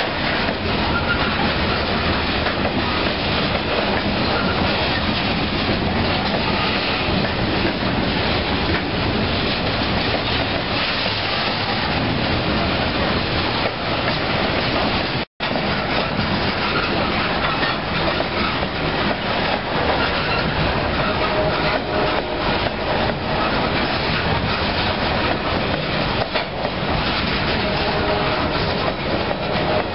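Coal hopper cars of a freight train rolling steadily past over a grade crossing: a continuous rumble and clatter of steel wheels on the rails, with the clack of rail joints. The sound cuts out for an instant about halfway through, and a faint steady tone joins in over the last third.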